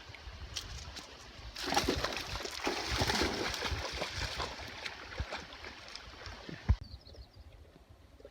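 Splashing and sloshing in shallow water as a dog plays in it, heaviest in the middle of the clip, with one sharp knock just before the splashing stops abruptly.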